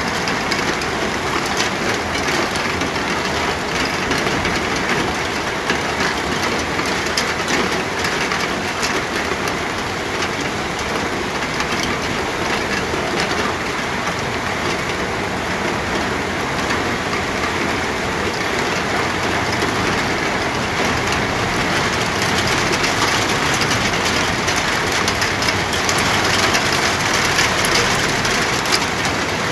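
Steady rain falling, with many separate drops ticking on a hard surface, swelling slightly near the end.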